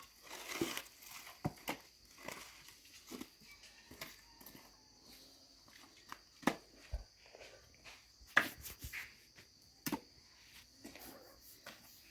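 Dry firewood sticks being handled and laid on a bonfire pile: scattered sharp knocks and snaps, the loudest about six and a half and eight and a half seconds in, with footsteps and rustling between.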